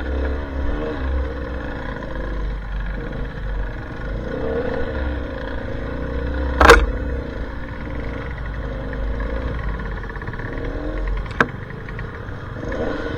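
Enduro trail motorcycle engine running with revs rising and falling, over a low rumble. A sharp loud knock cuts through about halfway in, and a smaller one near the end.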